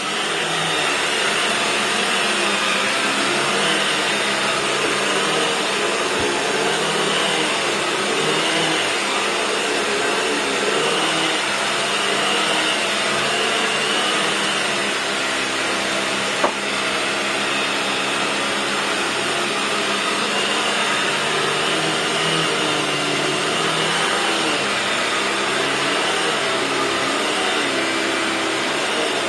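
Household vacuum cleaner running steadily, its motor tone wavering a little up and down, with a single sharp knock about halfway through.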